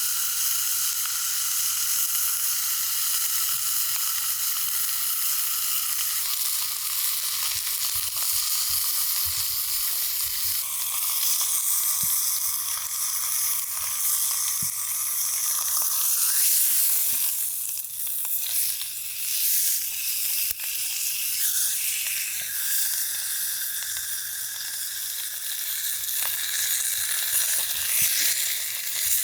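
Food sizzling in a pan over a campfire: a steady frying hiss with scattered small pops and spits.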